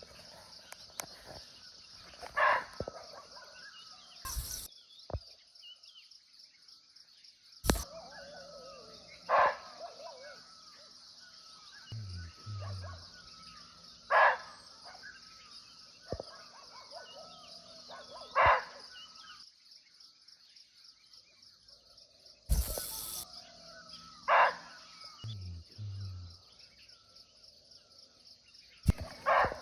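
Barking deer (muntjac) giving short, single barks, about six of them, one every four to five seconds, over a steady high drone of insects. A few sharp knocks stand out, as loud as the barks.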